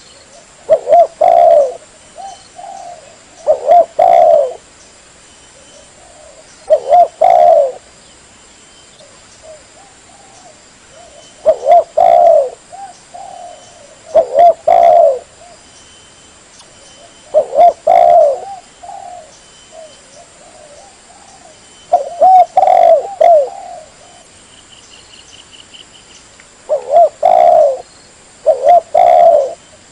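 Spotted dove cooing: a loud phrase of several low coos about every three seconds, with softer coos in between.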